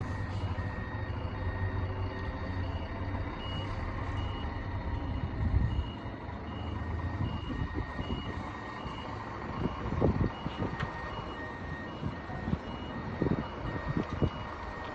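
A bus's reversing alarm sounding a steady run of high and low beeps, alternating, over the low running of its engine. A few knocks come in the second half.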